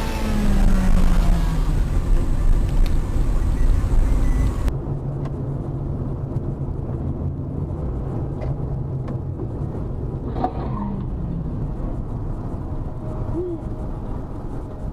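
Car engine and road noise picked up by a dashcam. A loud stretch with a slowly falling pitch cuts off sharply about four and a half seconds in, giving way to a duller, steady engine hum.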